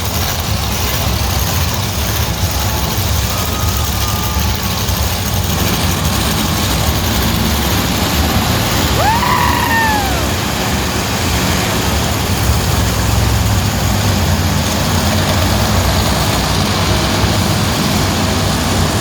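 Monster truck engines running with a steady, heavy low rumble. About halfway through, a single whoop glides up and then down over it.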